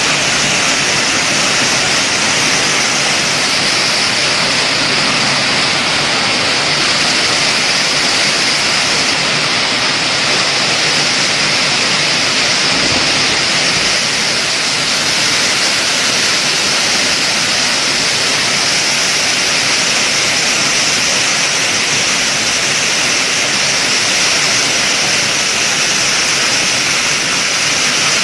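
Hailstorm: hailstones and rain pelting down in a dense, steady roar without a break.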